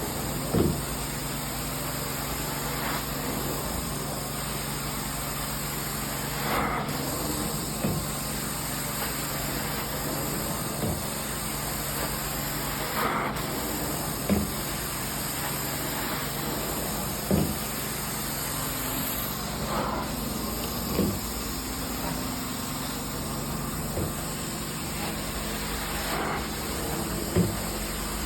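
Carpet extraction cleaning machine running: a steady suction hiss and motor hum, with a brief swelling whoosh every few seconds as the cleaning wand is stroked across the carpet.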